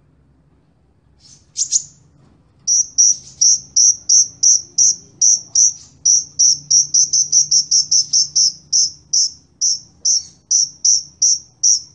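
Sunbird song: after a couple of brief high calls, a long, steady run of sharp, high chirps begins about three seconds in, repeated about three to four times a second.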